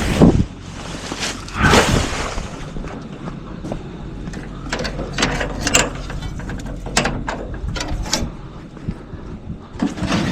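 Garbage truck running with a steady low hum under a run of mechanical clanks, clicks and rattles, with two heavy thumps near the start.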